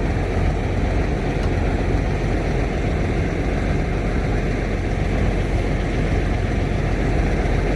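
Steady engine and road noise heard from inside a semi-truck's cab while driving.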